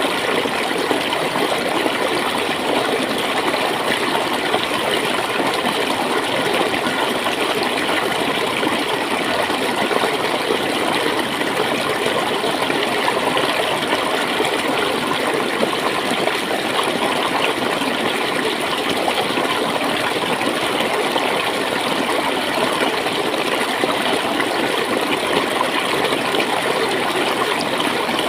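Clear water flowing and gurgling steadily, as in a small stream.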